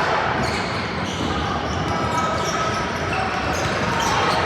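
Game ambience in a large indoor hall: steady crowd chatter mixed with scattered knocks and short high squeaks from play on the court.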